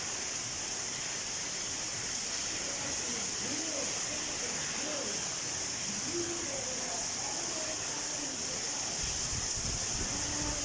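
Steady hiss of heavy rain falling, with faint distant voices underneath.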